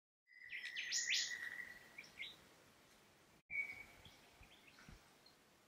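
Wild birds calling: a held whistle with several quick rising chirps over it, then scattered short chirps. The sound cuts out for an instant midway, and a second short whistle follows.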